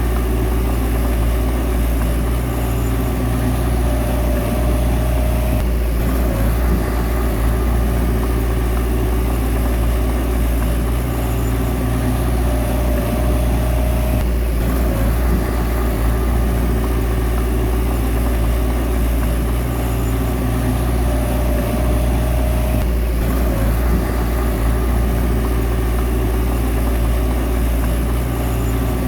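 Bulldozer's diesel engine running steadily. A higher steady tone joins it for a second or two about every eight seconds, three times.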